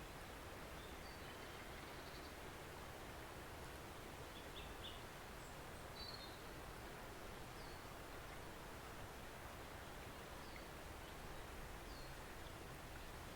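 Faint, steady rush of a gentle forest stream, with small birds giving short high chirps now and then.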